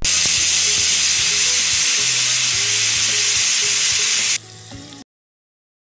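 Food frying in hot oil: a loud, even sizzle with a low steady hum beneath it. The sizzle cuts off suddenly about four and a half seconds in, followed by a short quieter tail.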